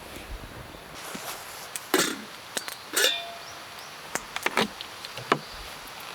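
A series of sharp knocks and clinks, about half a dozen, the loudest about two and three seconds in, with several lighter ones in the second half. The sound is of hard objects being handled and set down.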